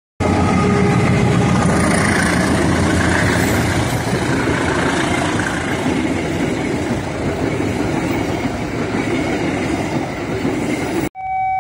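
Passenger train hauled by a KAI CC201 diesel-electric locomotive passing close by: the locomotive's engine, then the coaches' wheels on the rails in a steady loud rush that cuts off suddenly near the end.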